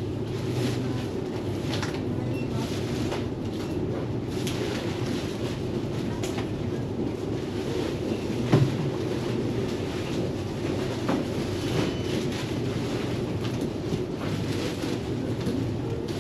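Steady road rumble and rattle of an e-bike being ridden, with a single knock about eight and a half seconds in.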